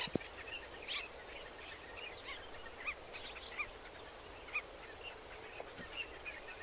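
Birds calling in open country: many short, high chirps scattered through, several a second, over a faint steady background.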